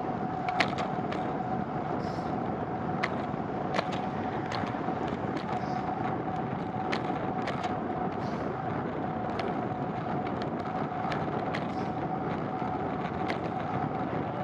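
Steady road noise from a bicycle ride in the rain, with a constant hum and scattered sharp clicks and ticks.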